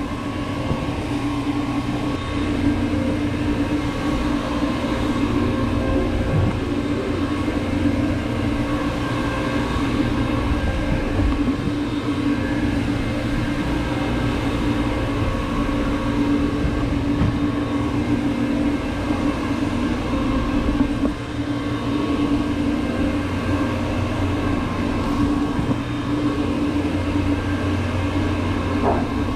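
Counter-rotating brush (CRB) carpet agitator running steadily, its motor and brushes scrubbing a pre-treated synthetic rug. The drone stops right at the end.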